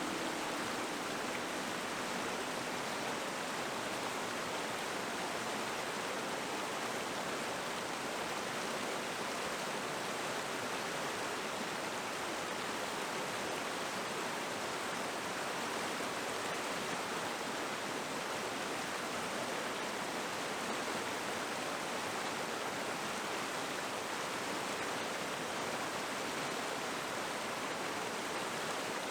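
River water running, a steady, even rush with no change throughout.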